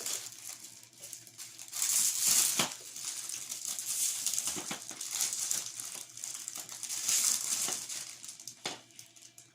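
Crinkling and rustling of a clear plastic ball of truffles as goats nose and bite at it to get the treats out, with scattered sharp clicks and taps. The loudest rustles come about two seconds in and again about seven seconds in.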